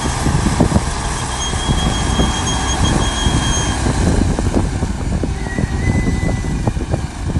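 Heavy earthmoving machine working: a diesel engine running under a steady, loud clatter of metal clanks, with a thin high metallic squeal through the first half and a briefer lower squeal near the end.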